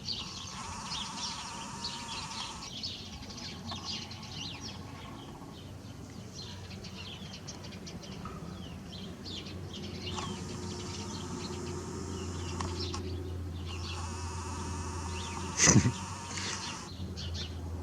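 Outdoor ambience of small birds chirping repeatedly over a steady low hum, with one loud sharp sound near the end.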